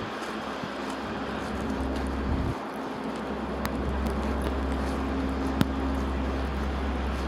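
City street traffic noise: a steady vehicle engine hum over a low rumble that grows louder about two seconds in, with two sharp clicks in the middle.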